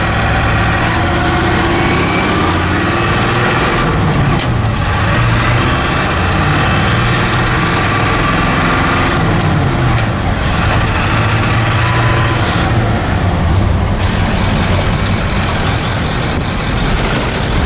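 1996 7.3 L Powerstroke turbo diesel V8 in a 1976 Ford F600, pulling under load while the truck is driven through the gears of its 5-speed manual. The engine note rises and falls, dropping clearly near the middle, heard from inside the cab.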